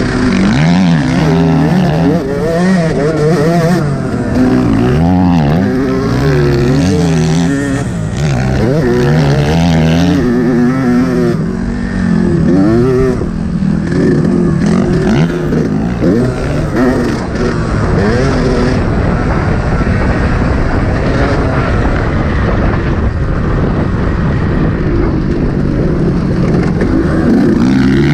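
Yamaha YZ125 two-stroke single-cylinder motocross engine revving hard and easing off again and again as it is ridden around the track, its pitch rising and falling every second or so.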